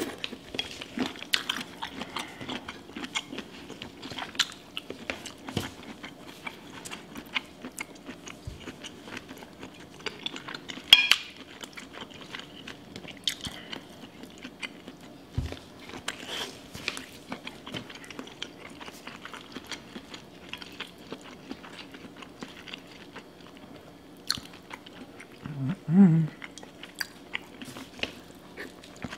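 Close-up chewing and wet mouth sounds of someone eating a saucy seafood boil, with many small clicks and smacks and a sharper, louder one about eleven seconds in.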